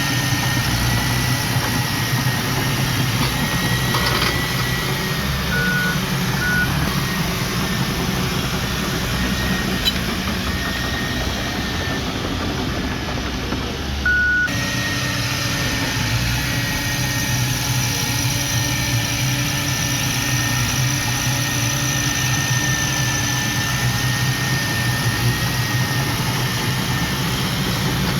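Diesel engine of earthmoving machinery running steadily at low revs, with a faint high whine and a few short beeps about six and fourteen seconds in. The sound changes abruptly about halfway through.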